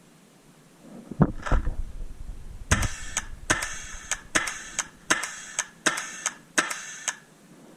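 A few low thuds, then a paintball marker firing a string of sharp cracks, coming in quick pairs about every three-quarters of a second.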